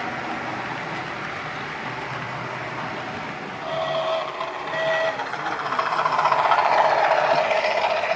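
OO gauge model trains running on the layout, their wheels and motors making a steady rush. Two short steady tones sound about four and five seconds in, and the running grows louder near the end.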